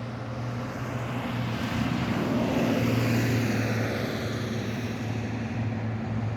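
A passing engine, its noise swelling to a peak about three seconds in and then fading, over a steady low hum.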